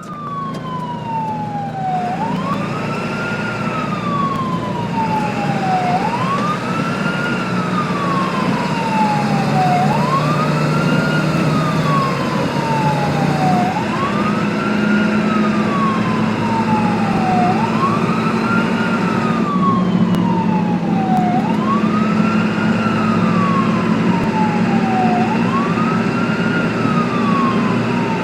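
Ambulance siren sounding a slow wail: each cycle sweeps up quickly and then falls slowly, repeating about every four seconds, over the low hum of the vehicle's engine. It cuts in suddenly out of silence.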